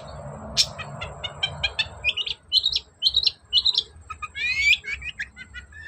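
Long-tailed shrike (cendet) singing hard: a rapid string of short, sharp chirps, several a second, with a rising sweeping call about four and a half seconds in.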